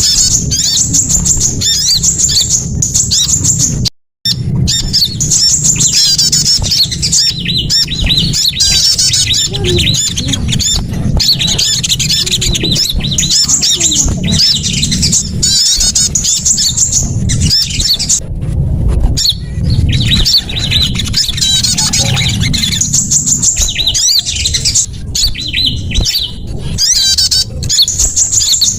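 Bird-lure recording of small songbirds chirping and trilling rapidly and without pause, many high-pitched calls overlapping, over a steady low rumble. The sound drops out for a moment about four seconds in.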